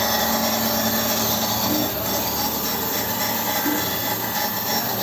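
Surface-grinding machine resurfacing the deck face of a Volvo six-cylinder truck cylinder head, a steady grinding and rubbing noise. A brief higher note comes about every two seconds.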